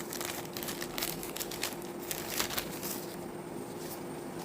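A small delivery packet being handled and opened by hand, with irregular crinkling and crackling for about three seconds that then thins out. A steady hum runs underneath.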